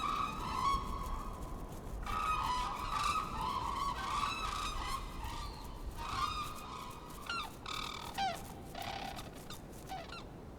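A flock of black-necked cranes calling: a dense chorus of overlapping, honking calls that thins after about seven seconds to a few scattered, sliding calls.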